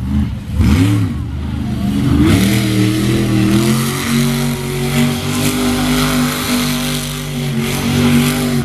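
Monster truck engine revving in short rising-and-falling blips, then held at steady high revs from about two and a half seconds in.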